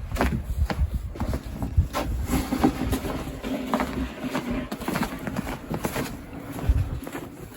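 Irregular crunches and scrapes in snow, with a low wind rumble on the microphone for roughly the first half.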